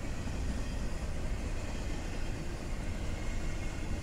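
Double-stack intermodal freight train rolling past: a steady, even rumble of the well cars' wheels on the rails.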